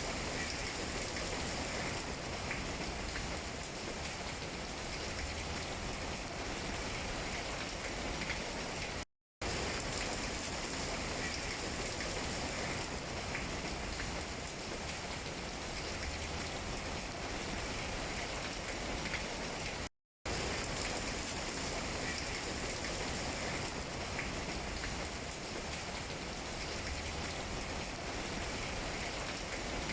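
Steady rain falling on tree leaves, an even patter with scattered drops. It cuts out to silence for a split second twice, about a third and two thirds of the way through.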